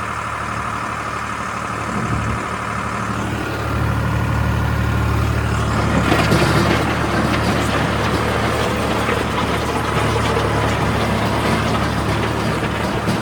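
Sonalika DI 35 tractor's diesel engine running steadily, growing louder about four seconds in and louder and harsher again around six seconds.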